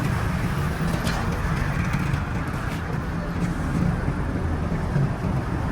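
Steady low rumble of running vehicle engines and road traffic, with a few faint clicks.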